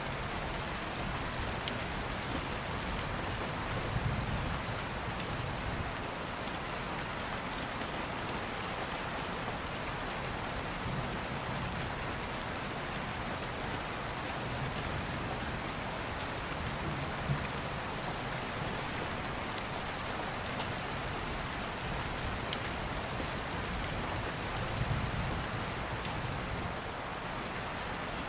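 Steady heavy rain falling, with low rumbles of distant thunder swelling up a few times, about every six or seven seconds.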